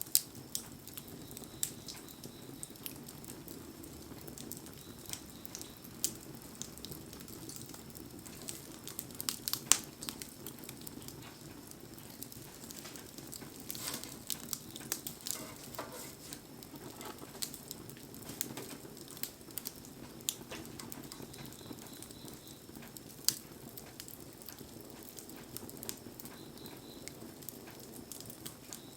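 Wood bonfire crackling in the rain: scattered sharp pops and snaps, thickest around ten seconds in and again a few seconds later, over a steady patter of rain.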